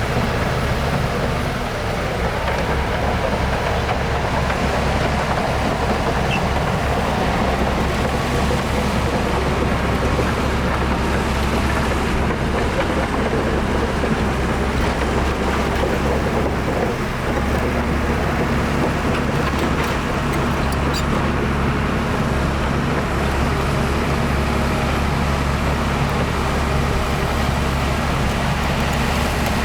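Diesel engine of heavy earthmoving machinery running steadily under load, with a brief easing about two-thirds of the way through.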